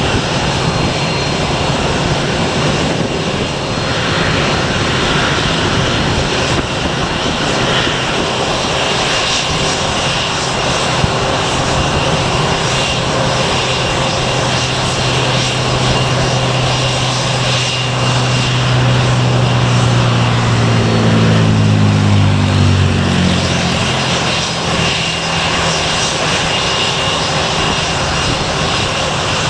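Departing airliner's engines running at take-off power, a loud steady roar. A low tone in it slides down in pitch about two-thirds of the way through, as the roar swells to its loudest.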